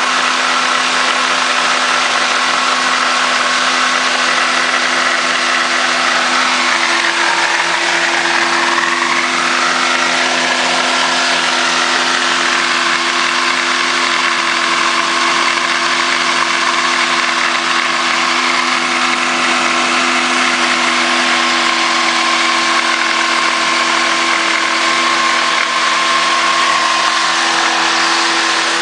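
1965 Ford Falcon engine running loud and steady at high speed, its throttle held wide open by a brick on the gas pedal. It is being run without coolant to blow it up.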